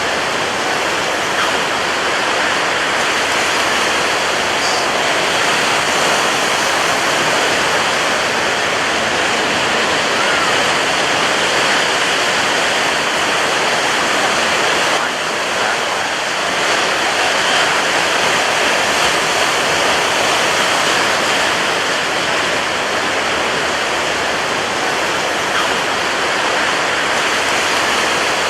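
Ocean surf breaking on a beach: a loud, steady, continuous rush of water with no single wave standing out.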